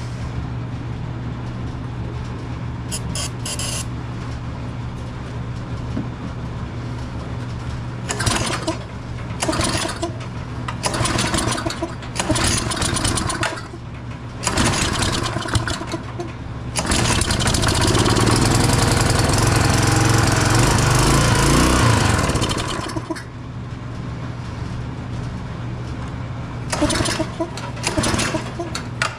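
Tecumseh small engine on a Craftsman pressure washer running after a carburetor swap. It runs unevenly, with repeated louder surges, and a louder stretch of about five seconds in the middle.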